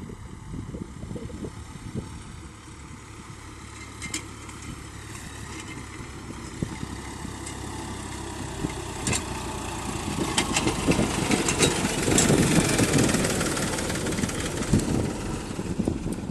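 Sonalika tractor's diesel engine running, growing louder over the second half, with a few sharp knocks and clatters along the way.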